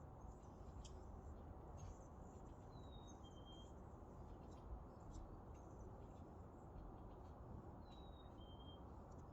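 Faint birdsong: a two-note whistle, a higher note sliding slightly down and then a lower held note, sung twice about five seconds apart, with scattered short high chirps from other birds over a steady low background hiss.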